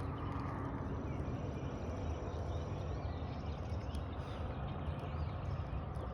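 Outdoor ambience: a steady low rumble of wind on the microphone, with faint bird chirps.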